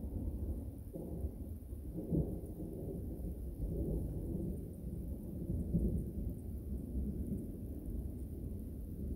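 Thunder rumbling low and continuously, swelling about two seconds in and again around six seconds.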